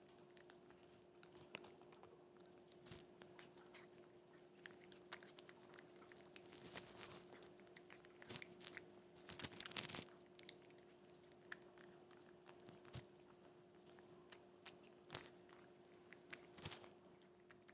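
Cat chewing and crunching food, in scattered faint crunches with a busier run of bites about halfway through, over a steady low hum.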